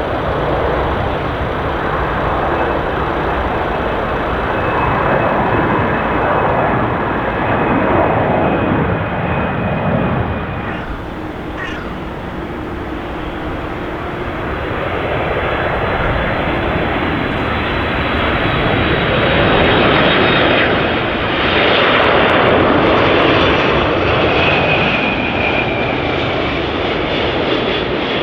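Jet airliner engines running loud and continuous, a broad rushing noise with a faint high whine; it eases off a little about eleven seconds in and swells again around twenty seconds.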